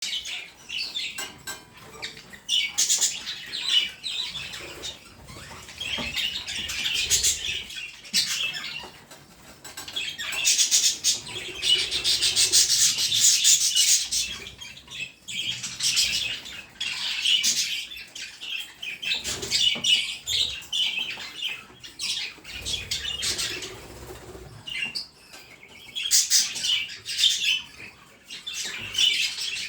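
Budgerigars chattering, a fast run of high chirps and squawks that comes in bursts, busiest about halfway through.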